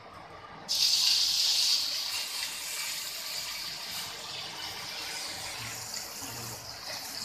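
Cauliflower florets going into hot mustard oil in a frying pan: a sudden loud sizzle about a second in, easing into a steady frying hiss.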